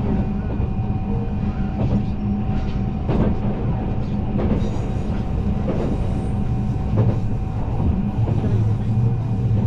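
Train running on rails: a steady rumble with a constant hum, broken by occasional short clicks.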